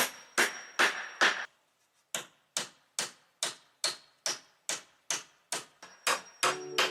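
A steady series of sharp knocks, about two and a half a second, breaking off briefly about two seconds in. Sustained musical notes join near the end.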